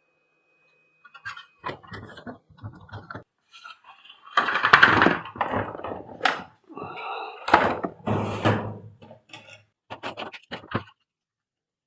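Irregular knocking, scraping and rattling of plastic parts being handled on a workbench, with the loudest scraping stretches near the middle and a few sharp clicks near the end, as the vacuum cleaner's cord-reel assembly is worked on.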